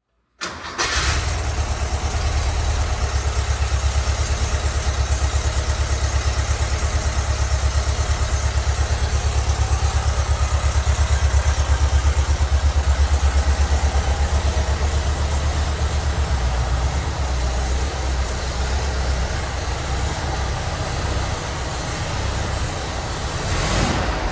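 1973 Porsche 914's air-cooled flat-four engine starting from cold, catching almost at once about half a second in, then idling with a steady pulsing beat. The idle settles a little lower past the middle, and there is a brief blip of revs near the end.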